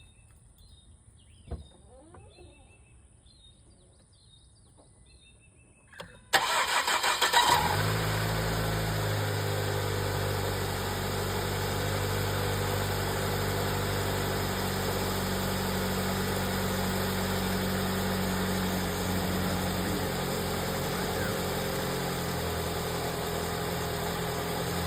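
Faint chirping, then about six seconds in the Ford 2.0 Duratec four-cylinder engine cranks for about a second on the starter, catches and settles into a steady idle.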